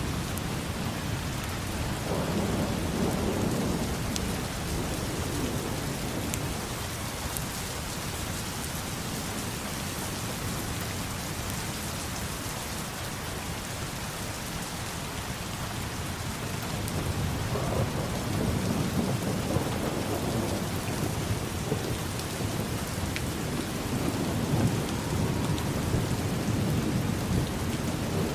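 Steady rain with low rolling thunder: one rumble about two seconds in and a longer, stronger one building from just past halfway to the end.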